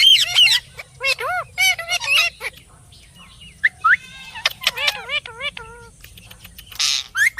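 Pet parrot chattering: clusters of short, warbling chirps and squawks that bend up and down in pitch, with a short harsh, noisy squawk near the end.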